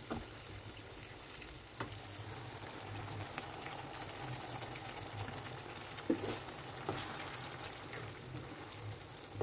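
Beef rendang sauce sizzling in a nonstick pan as a wooden spatula stirs it, with a few scrapes and knocks of the spatula against the pan, the loudest about six seconds in.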